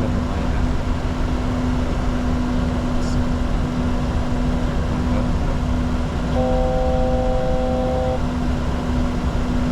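Steady cockpit noise of a Bombardier Challenger 604 business jet, engine and airflow noise with a constant hum. About six seconds in, a steady electronic cockpit tone sounds for about two seconds.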